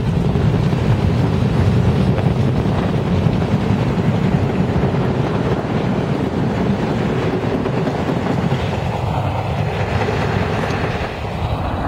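Staten Island Railway R44 train pulling out of the station alongside, a steady running noise of wheels on rails and traction motors that eases a little near the end as the train draws away down the line.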